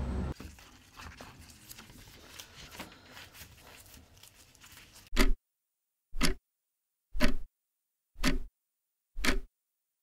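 Clock ticking, five loud single ticks about one a second, starting about halfway through, with dead silence between them. Before the ticks there is only faint room sound with a few small clicks.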